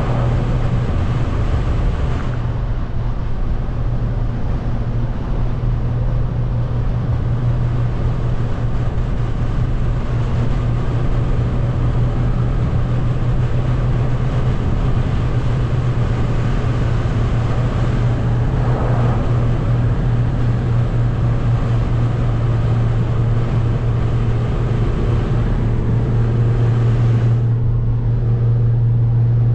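Straight-piped BMW 340i turbocharged inline-six exhaust holding a steady, loud drone at an even engine speed while driving.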